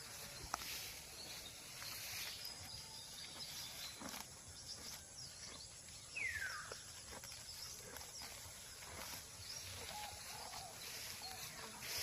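A cow grazing, tearing and chewing grass in short, irregular crunching strokes. A single falling whistle sounds about halfway through.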